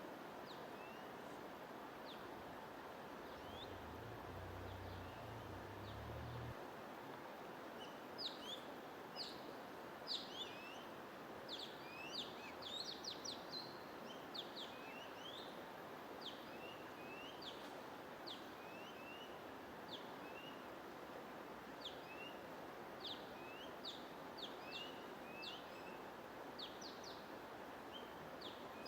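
Songbirds chirping with many short, quick calls over a steady hiss of white noise. The calls are sparse at first and grow busy from about eight seconds in.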